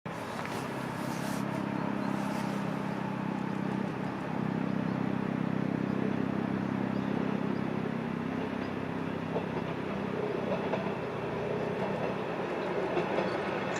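Watarase Keikoku Railway 'Torokko Wasshi' diesel train running along the line, with a steady low engine drone under the rumble of wheels on rails.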